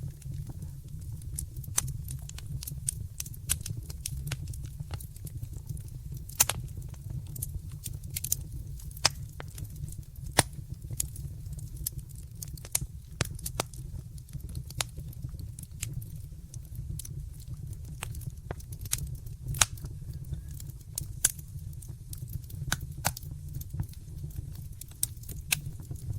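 Wood fire burning in a fireplace: irregular sharp crackles and pops, several a second, some louder than others, over a steady low rumble of the flames.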